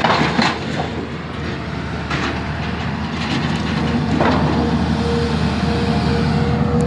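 Excavator's diesel engine running steadily, with a few sharp metallic knocks; a steady higher tone joins in about five seconds in.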